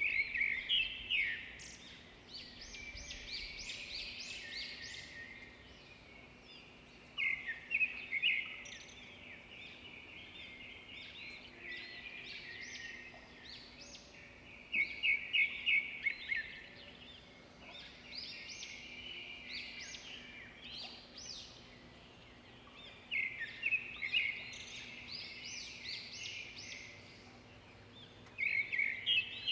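A bird singing outdoors: loud phrases of quick, high chirps come about every seven seconds, with softer twittering in between.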